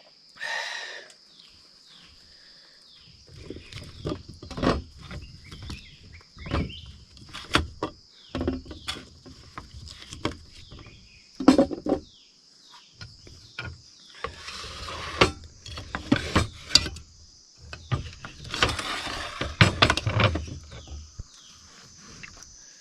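Crickets trill steadily in the background. Over them come irregular knocks, clatter and rustling of things being handled and set down, with a couple of longer scraping or rustling stretches.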